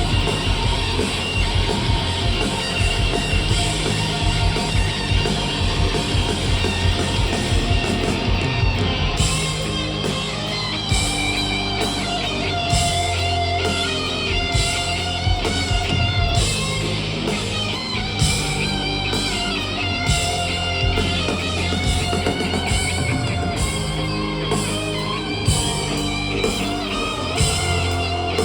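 Rock band playing a song, with electric guitar to the fore over a steady bass line.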